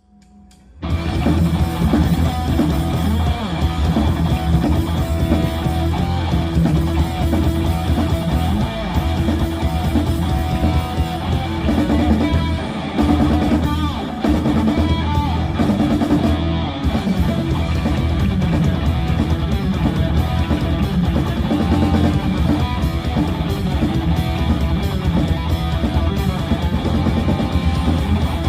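Live rock band with distorted electric guitars, bass and drum kit playing a song at full volume; the music cuts in abruptly about a second in.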